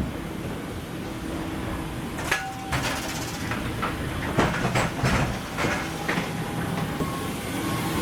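Steady low mechanical rumble of the airport boarding area, with a string of irregular knocks and thuds as someone walks along the jet bridge, most of them in the middle of the stretch.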